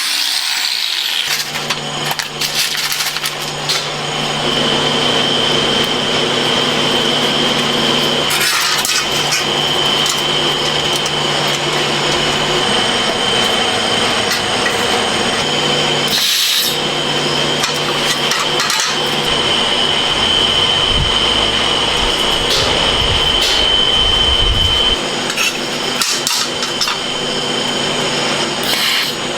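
Metalworking power tools running steadily in a welding shop: a continuous high whine over a rough hiss and low hum, changing abruptly a few times.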